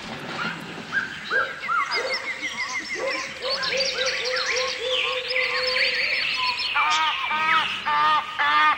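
Several birds calling and singing at once: runs of quick repeated chirps and trills, with a louder series of repeated harsher calls near the end.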